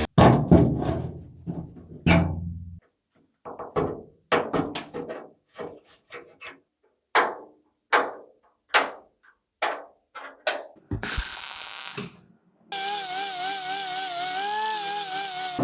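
Hammer blows on the car's sheet-metal body panel: about twenty irregular, sharp strikes, each ringing briefly. Near the end a short burst of noise gives way to a steady power-tool whine that wavers in pitch.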